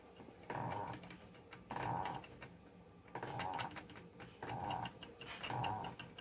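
Spinning wheel being treadled at a steady pace, with a creak or squeak on each stroke, roughly every second and a bit.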